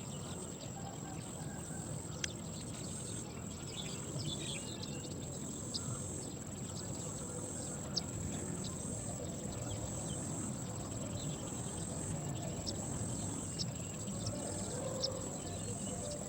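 Steady high-pitched insect trill in the background, with short bird chirps dotted throughout.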